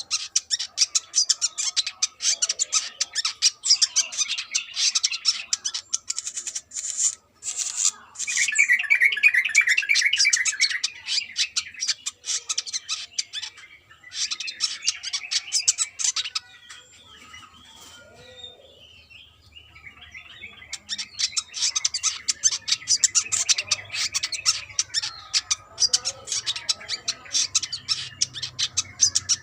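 Brown-throated sunbird singing: rapid, high-pitched chirping and trilled phrases in long runs, with a lull about two-thirds of the way through before the song picks up again.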